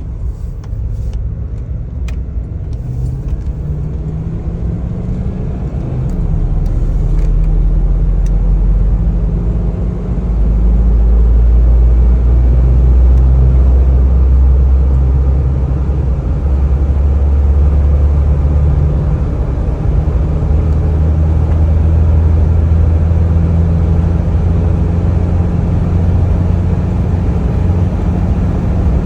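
Ford Bronco engine and road noise under hard acceleration up to highway speed. The engine tone shifts in steps as it goes through the gears, growing louder over the first ten seconds, dipping briefly about ten seconds in, then holding steady at speed.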